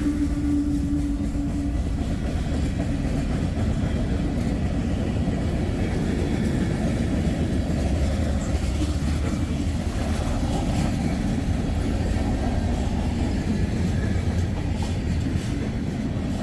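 Freight train passing close by: a locomotive horn ends about two seconds in, then the steady rumble of the train's cars rolling past.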